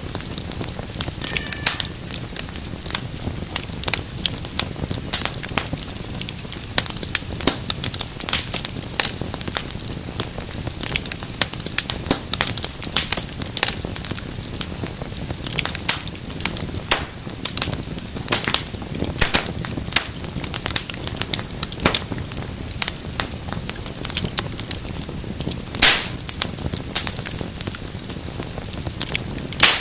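Fireplace fire crackling: dense, irregular pops and snaps over a low, steady rush of flame, with a louder snap about four seconds before the end.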